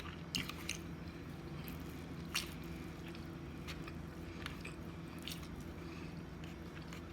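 Close-up chewing and wet mouth sounds of someone eating, with a few soft sharp clicks scattered through, over a steady low hum.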